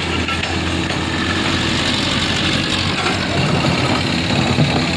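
Engine noise running steadily, with no clear rise or fall.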